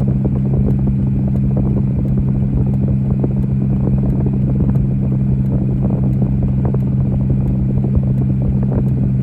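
Motor vehicle running steadily: a constant low hum with a dense crackling rumble underneath.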